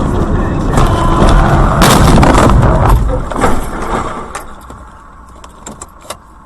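Road vehicle collision: a loud crash and grinding noise that peaks about two to three seconds in, then dies away into scattered clicks and rattles.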